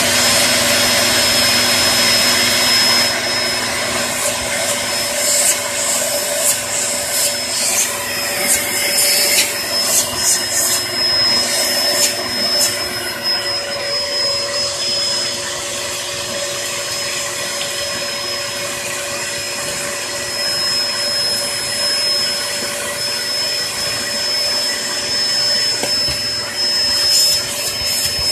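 Hoover Performer Pet HPT16 upright vacuum cleaner's motor running with a steady high whine, with irregular crackles and clicks, mostly between about five and thirteen seconds in and again near the end. It is running with its filter clogged with ash and little suction left.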